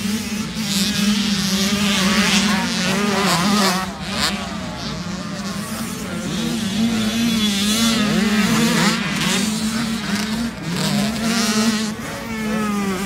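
Dirt bike engines revving up and down through the gears, with several bikes' engine notes rising and falling over one another while one engine holds a steady drone.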